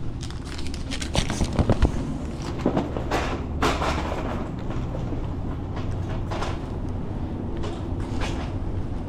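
Truck engine idling with a steady low rumble under a run of sharp metal clanks and knocks. The knocks are heaviest about a second and a half in and again around three and a half seconds.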